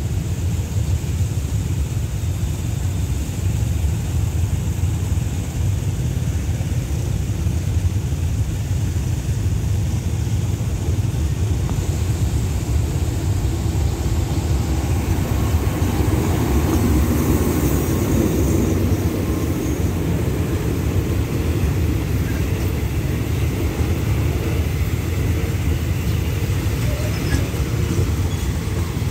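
Alsthom diesel-electric locomotive 4124 hauling a passenger train, approaching and passing close by: a steady low rumble of engine and wheels on rail that grows fuller around the middle, with the coaches rolling past near the end.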